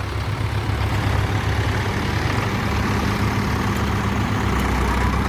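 Tractor diesel engines running steadily with a low, even drone; a slightly higher engine note joins about halfway through.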